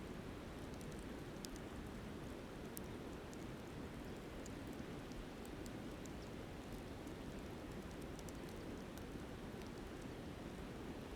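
Campfire crackling, with scattered small, sharp pops, over the steady rush of a flowing river.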